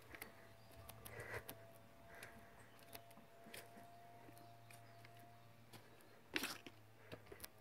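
Near silence: a faint steady hum with scattered soft clicks and rustles, and one louder brush or knock about six and a half seconds in.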